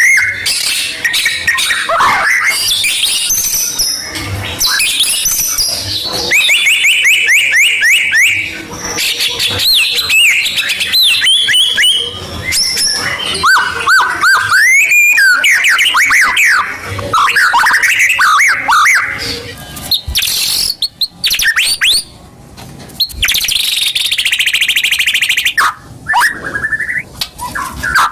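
White-rumped shama (murai batu) song: a loud, varied run of clear whistles, rising and falling phrases and fast rattling trills, with a few brief pauses past the middle. It is the kind of provoking song played to caged shamas to get them singing.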